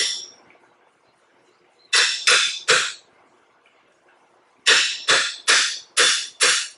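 A small dog barking in quick runs: three sharp, high barks, then five more about two seconds later.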